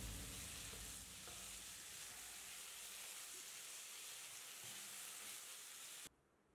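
Chicken pieces frying in a nonstick pan, a faint, even sizzle, with a wooden spatula stirring through them. The sizzle cuts off suddenly near the end.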